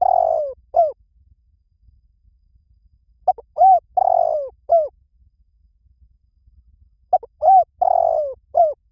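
Spotted dove calling: phrases of four soft coos, the third longer and sliding down in pitch, repeated about every three and a half seconds. One phrase ends at the start, and two more follow in full.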